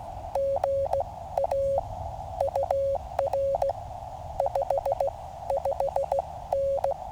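Morse code from a QCX mini QRP transceiver: a single steady tone keyed on and off in dits and dahs, over a band of receiver hiss.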